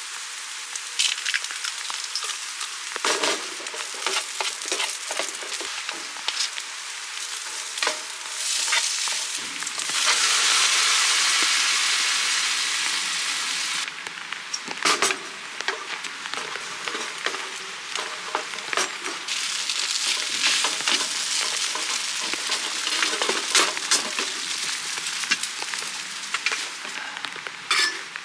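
Diced onion frying in a pan: a steady sizzle with many small crackles and pops. About ten seconds in, a loud hiss swells and holds for a few seconds before it drops away, and then the lighter crackling goes on.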